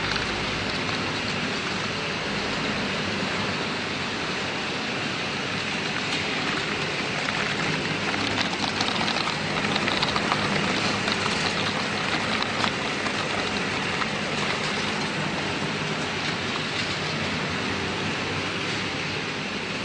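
Snack production line machinery running steadily: a continuous mechanical din with a hissing, pattering layer that grows denser and crackly for a few seconds in the middle.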